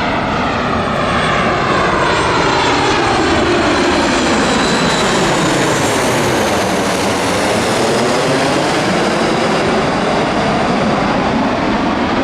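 Jet airliner on landing approach passing low overhead: loud, steady engine noise with a sweeping, phasing whoosh that falls and then rises in pitch as it goes over.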